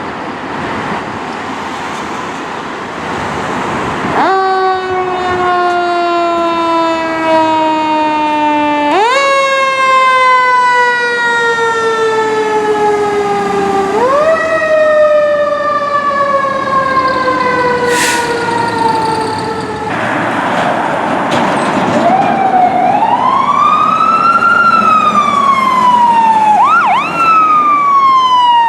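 Fire apparatus sirens: a mechanical siren is wound up sharply three times, each time coasting slowly down in pitch, after a stretch of rushing noise. An electronic siren then sweeps slowly up and down in a wail and switches to a fast yelp near the end.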